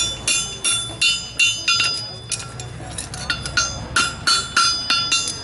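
Farrier's hammer striking a horseshoe on an anvil while forging it, a run of ringing metal-on-metal blows about three a second with a short pause near the middle.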